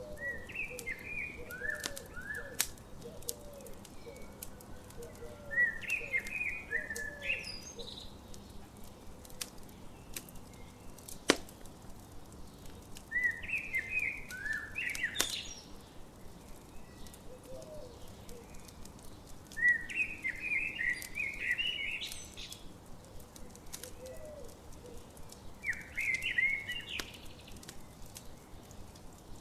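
Songbird singing a short warbled phrase about every six seconds, over a campfire crackling with scattered sharp pops, one loud pop near the middle. A softer, lower bird call repeats in the background.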